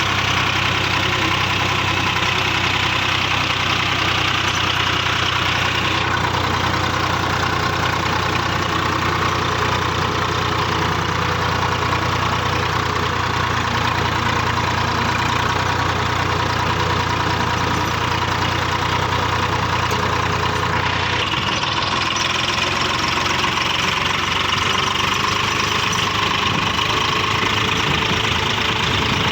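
Swaraj 855 tractor's three-cylinder diesel engine running steadily. About twenty seconds in, its low engine note changes.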